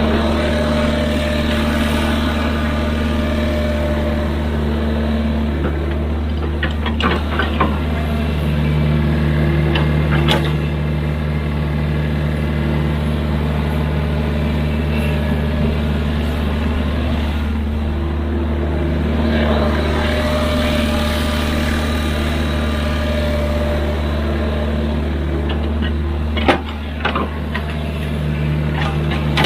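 Hydraulic excavator's diesel engine running steadily under working load, its tone shifting as the hydraulics work. A few sharp metallic knocks, the loudest one near the end.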